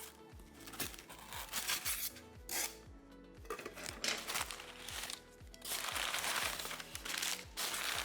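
Crinkling, rustling and tearing of shipping packaging as a box is unpacked by hand, in uneven bursts over background music with a steady beat.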